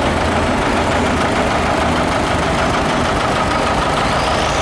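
Vintage farm tractor engine running steadily as the tractor drives past in a parade.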